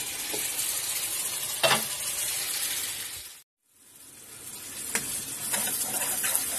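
Onion-and-spice masala sizzling steadily in oil in an aluminium karahi as it is fried down, with a single sharp clink about a quarter of the way in. The sound cuts out briefly near the middle, then the sizzling comes back with a metal spatula scraping and stirring through the masala in small repeated clicks.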